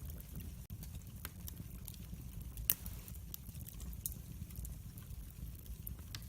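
Wood fire in a fireplace crackling: a steady low rumble of flames with scattered sharp pops, one louder pop a little before halfway through.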